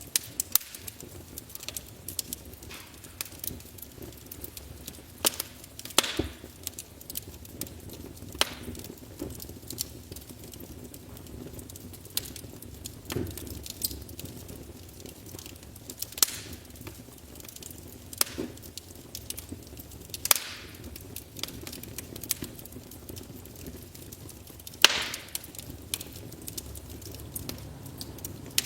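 Wood fire burning in a fireplace, crackling with irregular sharp pops and snaps over a low steady background. About a dozen louder cracks stand out, the loudest a little before the end.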